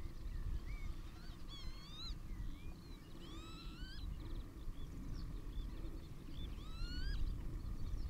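Several clear, rising, slurred whistled bird calls in three main groups, over a steady low rumble.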